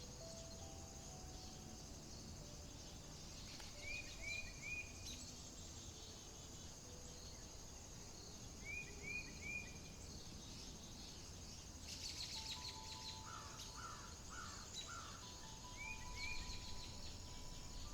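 Outdoor nature ambience: birds calling, with a phrase of three quick rising chirps that recurs three times, and other calls and trills, over a steady high insect drone and a low rumble.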